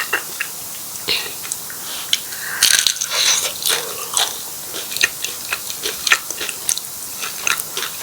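Close-miked eating sounds: biting and chewing martabak telur, a fried stuffed pastry, with many short crisp snaps and mouth clicks and a louder, crunchier stretch about three seconds in.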